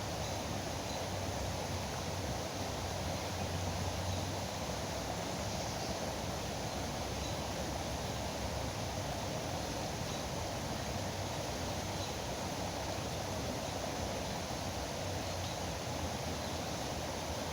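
Steady rushing of flowing river water, an even wash of noise that holds level throughout.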